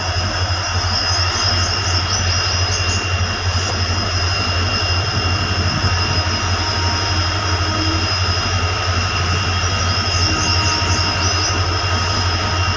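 Express train running through at speed: a steady loud rumble of the passing train with a high steady whine over it.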